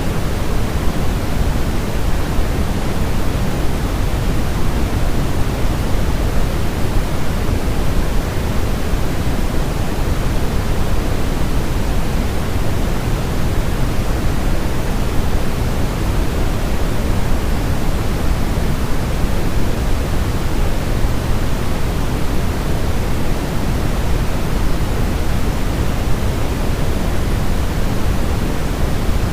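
Steady, unchanging white noise of the kind played to settle a colicky baby to sleep, heavier in the deep end than in the hiss.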